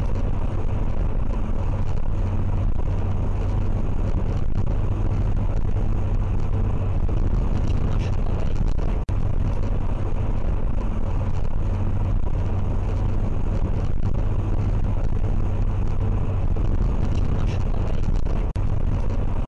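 Steady low rumble of a car driving, picked up by a dashcam, with two brief dropouts about 9 and 18.5 seconds in.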